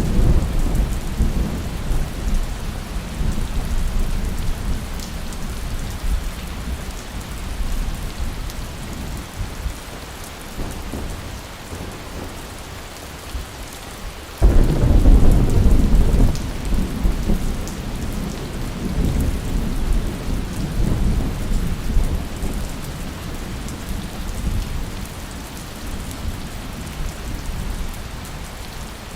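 Steady rain with rolling thunder. A thunder rumble fades over the first several seconds, and a sharper, louder clap breaks in about halfway through, then rolls away.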